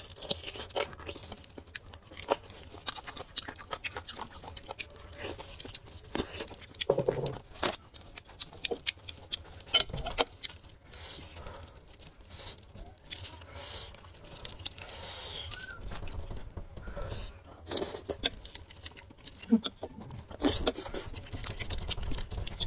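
Close-miked eating sounds: chewing and wet mouth sounds of braised beef and bone marrow, with small clicks and scrapes of a utensil digging marrow out of a beef bone.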